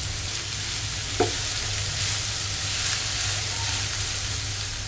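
Grated raw potato and chopped onion sizzling in hot oil in a nonstick frying pan while being stirred with a silicone spatula, over a steady low hum.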